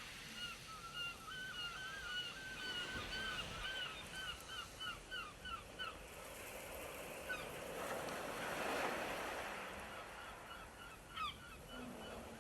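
Birds calling in a fast run of short, arched, repeated notes that pause for a few seconds and then return near the end, over the rush of sea wind and surf that swells about eight seconds in.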